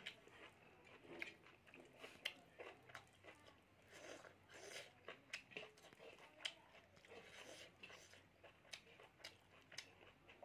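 Faint close-up chewing of rice and pork: irregular wet mouth clicks and smacks, several a second.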